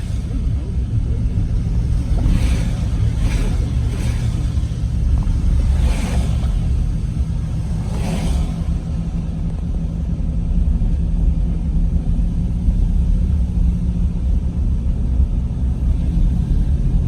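Steady low rumble of road and engine noise inside a moving vehicle, with a few faint short hisses along the way.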